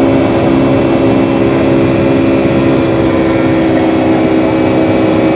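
Boeing 757-300 jet engines droning steadily, heard from inside the cabin: an even rushing noise with several constant humming tones and no change in level.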